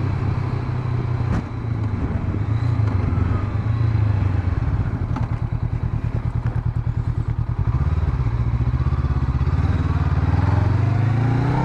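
Honda CB500X's parallel-twin engine running at low revs, its pitch rising near the end as it picks up speed.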